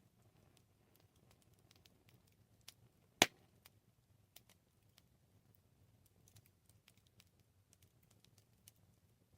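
Wood campfire crackling: scattered small snaps and one sharp, loud pop about three seconds in, over a faint low rumble of the flames.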